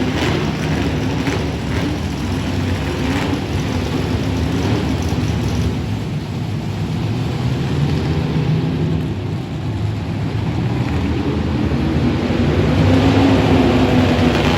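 Monster truck engine running, rising and falling in pitch and loudness, louder near the end.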